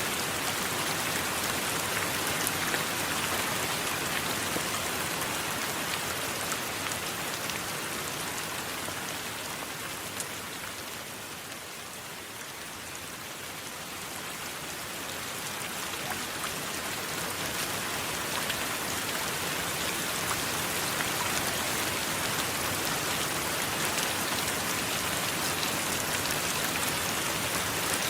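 Steady rain falling, with scattered sharper drop taps. The level sinks gradually for several seconds around the middle, then swells back up.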